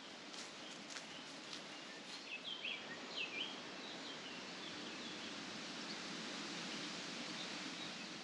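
Small birds chirping over a steady outdoor hiss, with a cluster of short calls about two to three seconds in.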